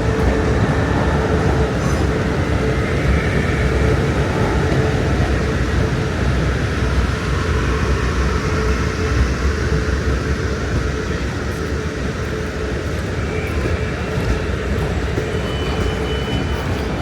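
Electric suburban multiple-unit train running: a steady rumble with a continuous hum, and a fainter higher tone joining near the end.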